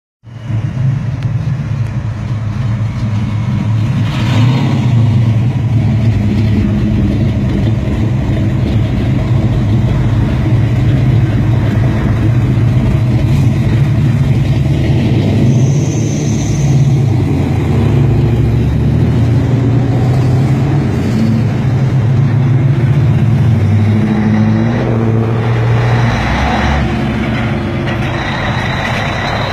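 Pontiac Trans Am V8 engines rumbling and revving as the cars pull away one after another, a loud, steady low rumble that rises and falls. Near the end a semi truck's engine joins in.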